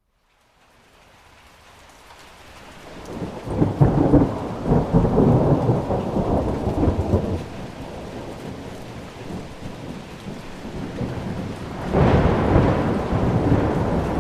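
Thunderstorm: steady rain with two long rolls of thunder, the first starting about four seconds in and lasting several seconds, the second near the end. The sound fades in from a brief silence at the start.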